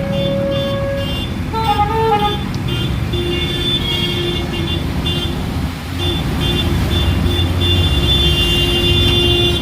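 Road traffic with a steady engine rumble and vehicle horns sounding, some held for several seconds and some cut short again and again.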